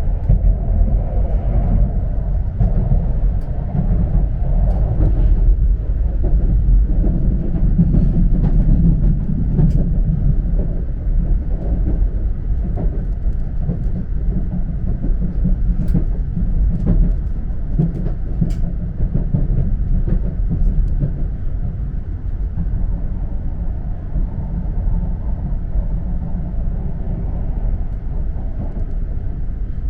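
Cabin noise on the lower deck of an E4 series 'Max' double-decker Shinkansen: the steady low rumble of the train running on the final approach into its terminus, with a few faint clicks, slightly quieter in the second half.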